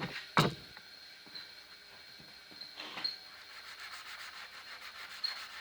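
Forged steel knife blade being hand-sanded with sandpaper: quick, steady back-and-forth rubbing strokes, after two short knocks at the start.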